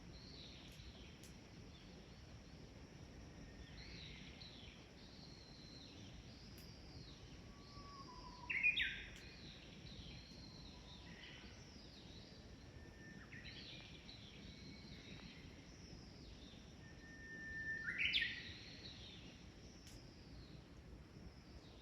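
Birds singing over a faint background hiss: a repeated phrase of a held whistle leading into a quick, higher flourish, loudest twice (about a third of the way in and again near the end), with softer calls between.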